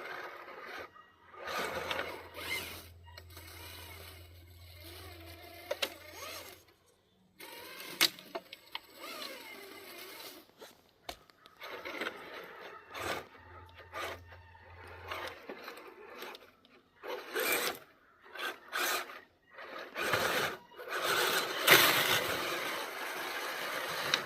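Radio-controlled scale trucks driving in stop-start bursts: electric motors and geared drivetrains whining and rising and falling in pitch, with scraping and crunching over the ground, about a dozen short runs with brief pauses between them.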